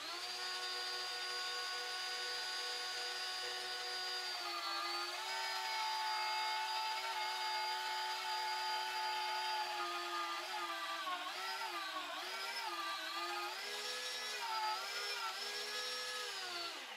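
Vevor 8850E 1400 W magnetic drill press running forward and cutting a hole through a metal bar, its motor a steady whine. The motor comes up to speed at the start, its pitch dips and wavers through the middle as the cutter works through the metal, and it winds down at the end.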